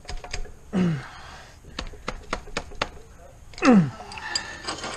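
Scattered sharp clicks and knocks of hand tools and metal parts being handled, with two brief sounds that fall steeply in pitch, the louder one near the end.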